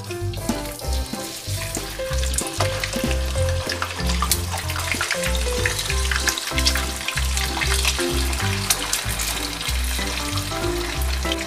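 Salmon steaks frying in hot oil in a pan: a steady sizzle with many small sharp pops of spattering oil as the pieces are laid in with a slotted spatula.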